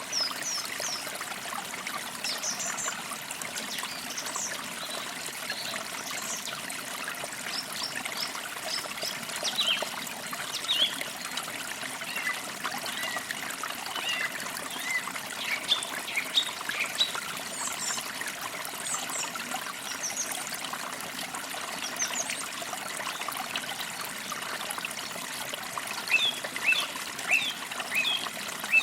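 A shallow forest creek trickling steadily over stones, with many small songbirds chirping in short quick notes throughout, busiest about ten seconds in, in the middle stretch and again near the end.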